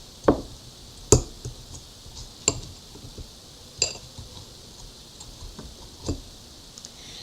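A metal fork clinking against a plate of microwaved potato slices. About five sharp clinks come at uneven intervals, and one near the middle rings briefly.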